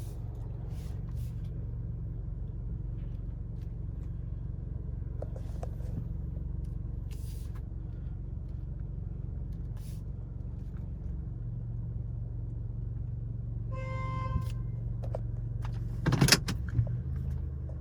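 Steady low hum of a car idling, heard from inside the cabin. About fourteen seconds in there is a short electronic beep, and a sharp knock comes near the end.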